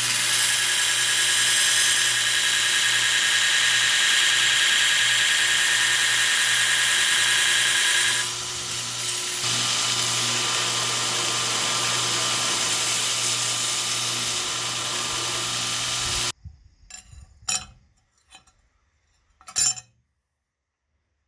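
Electric power tool running steadily on the saw-blade steel, its pitch and level shifting briefly about halfway through. It cuts off suddenly, and a few sharp clicks follow.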